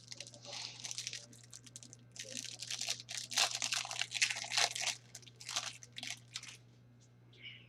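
Foil trading-card pack wrapper being torn open and crumpled by hand, in two spells of crackling and crinkling, the longer one in the middle.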